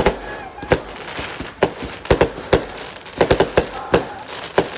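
Fireworks going off: about a dozen sharp bangs at irregular intervals, with a quick cluster of several just after three seconds in.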